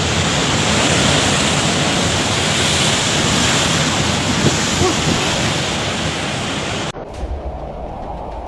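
Loud, steady rushing roar, like strong wind or rushing water, that cuts off suddenly about seven seconds in and gives way to a quieter low rumble.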